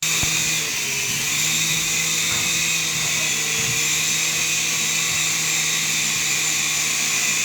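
Small electric RC helicopter's motor and rotors running with a steady high-pitched whine and a low hum under it, holding an even pitch throughout.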